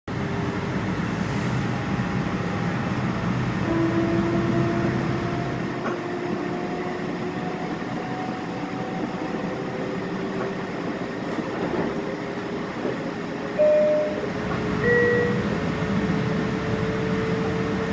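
Passenger train running along the track, heard from inside a car: a steady rumble and rail noise, with faint tones slowly drifting in pitch. Two brief, louder higher tones come about three-quarters of the way through.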